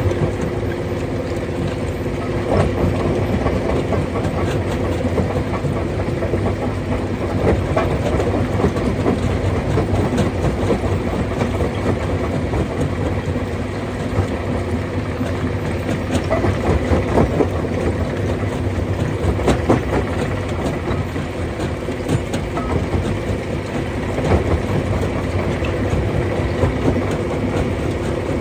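Rock crusher running steadily: a continuous low machine hum under a dense, uneven clatter of stone knocking and breaking inside it.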